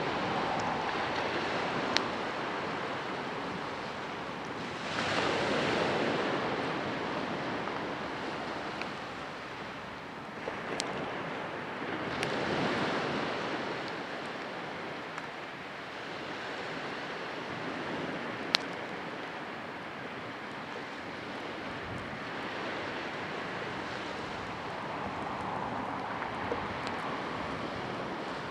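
Sea waves washing onto the shore, swelling and falling back every several seconds, with a few sharp clicks.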